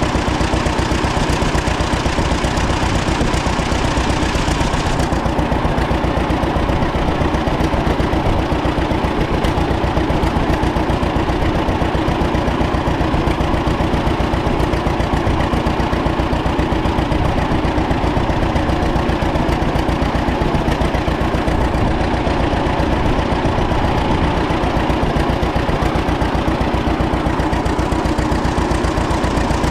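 1936 John Deere Model A two-cylinder tractor engine running steadily at a low, even speed after its cold start, with a regular firing beat.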